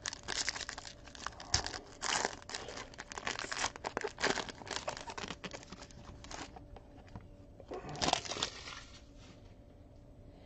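Plastic trading-card pack wrapping crinkling and tearing as a pack is opened and the cards are handled. It is dense and continuous for about six seconds, then quieter, with one more short burst near the end.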